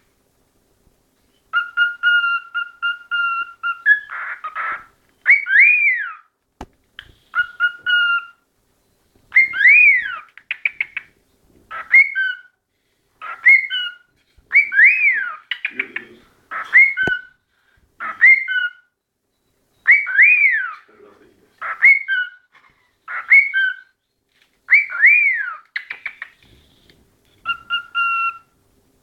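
A cockatiel singing a repeated whistled song: rising-and-falling swoops, held two-note whistles and quick chattering trills, phrases recurring every few seconds with brief pauses.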